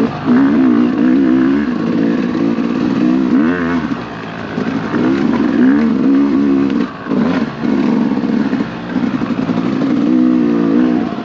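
Dirt bike engine revving up and down as the throttle is worked on a muddy trail, its pitch rising and falling again and again with a few brief lulls.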